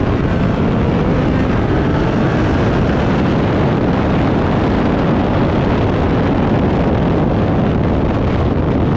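Race car running at speed, mostly buried under a loud, steady rumble of wind on the microphone.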